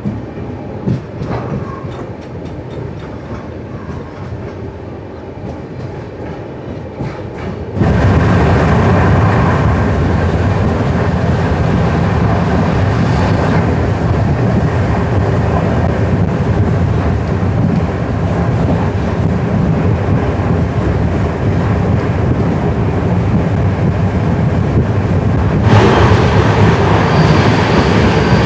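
Indian Railways express sleeper coach running along the track, its wheels rumbling and clattering on the rails. The sound becomes suddenly much louder about eight seconds in and stays that way.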